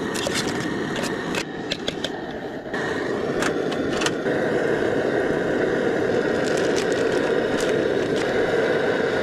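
Duck breasts sizzling in a pan on a camp stove: a steady hissing that gets louder about three seconds in, with scattered clicks and scrapes.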